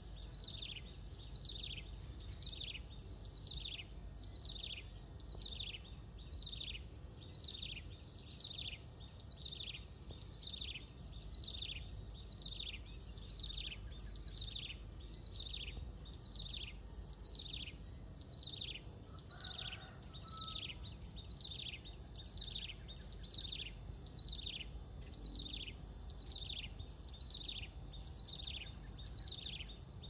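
A small sparrow-sized songbird calling one sharp note that falls steeply in pitch, repeated steadily a little more than once a second. A steady low rumble of background noise runs underneath.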